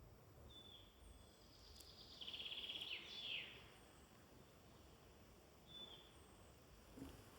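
Faint woodland birdsong: a short high call repeats every two seconds or so, and a little over two seconds in a bird gives a rapid trill that ends in a quick falling sweep. A low steady background hiss lies under it.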